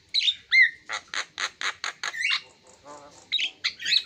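Javan myna singing a varied, chattering song. It opens with short whistled slurs, then gives a quick run of about five harsh rasping notes, a gliding whistle, and more harsh calls near the end.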